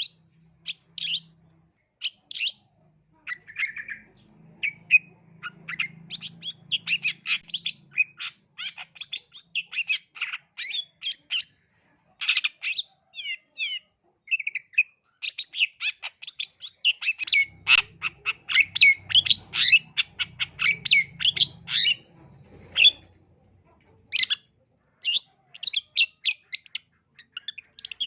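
Long-tailed shrike (cendet) singing a fast, varied run of short chattering and whistled notes, several per second, broken by short pauses.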